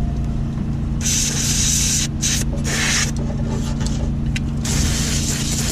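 Aerosol spray can being sprayed in four hissing bursts, the first about a second long and the last near the end, over a steady low hum.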